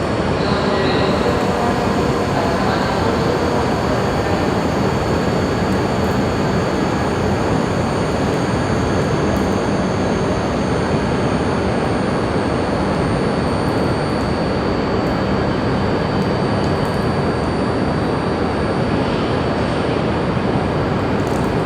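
Shinkansen train moving along the platform: a steady rushing noise of wheels and running gear, with a thin, steady high tone above it.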